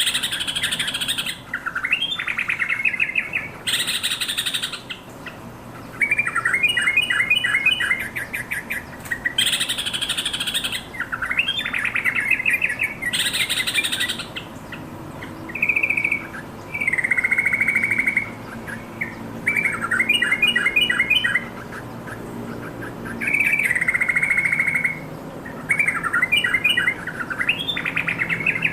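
Yellow-vented bulbul singing: short, bubbly, warbled phrases repeated about every two seconds, some with a harsher, higher chattering part.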